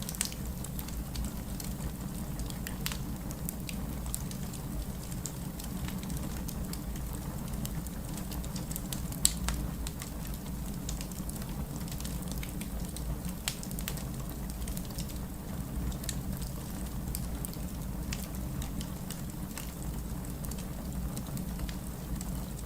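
Fireplace crackling with scattered pops, one sharp pop about nine seconds in, over a steady low rumble of rain.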